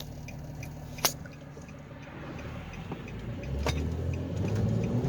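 Nissan Maxima's V6 engine heard from inside the car as it pulls away, the engine sound building from about three and a half seconds in, with a single sharp click about a second in.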